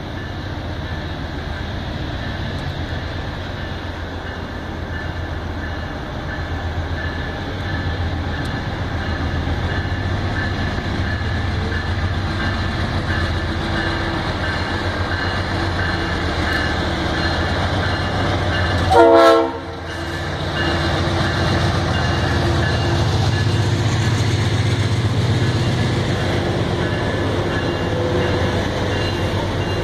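Passenger train of the Vitória-Minas railway rolling slowly in, a steady rumble of locomotive and cars with faint wheel clatter. About two-thirds of the way through, a short, loud horn blast stands out.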